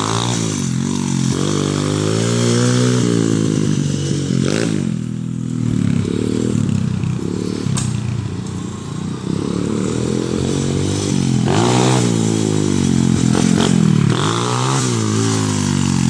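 125cc pit bike engine being ridden, its revs climbing and dropping again and again as the throttle is opened and closed through the gears.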